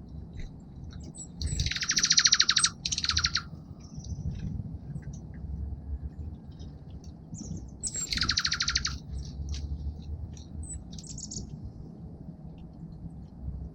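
Small songbirds calling at a bird feeder: two loud, buzzy trills of about a second each, the first about two seconds in with a shorter one right after it, the second about eight seconds in, with scattered short chips between them over a steady low background rumble.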